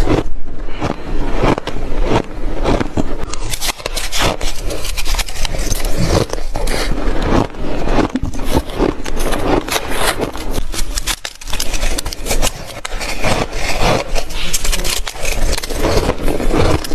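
Shaved ice being bitten and chewed close to the microphone: loud, dense crunching with rapid crackles, nearly continuous with only brief dips.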